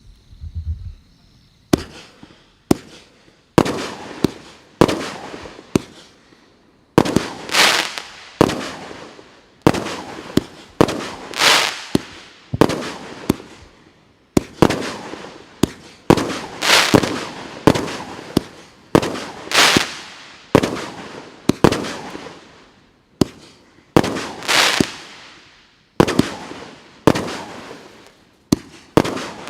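Multi-shot fireworks battery (salute cake) firing shot after shot, about one a second. Each shot is a sharp bang followed by a fading tail before the next.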